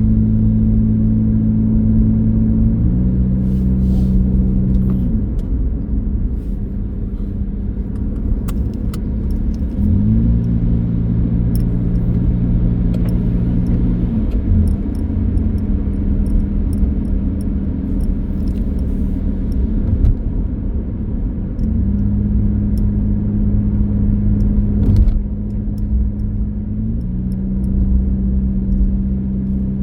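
Car driving, with a steady engine hum and road rumble; the engine's pitch steps down and back up several times.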